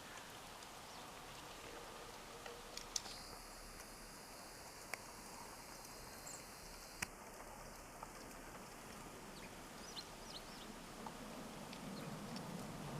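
Faint, quiet outdoor winter ambience with a few brief, high bird calls and several sharp clicks or taps.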